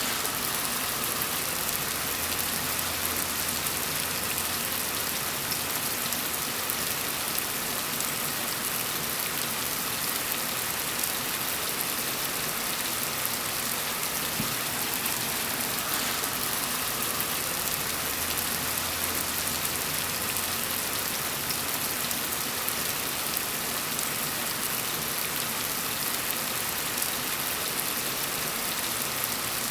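Gentle rain falling steadily, an even hiss of drops on a surface.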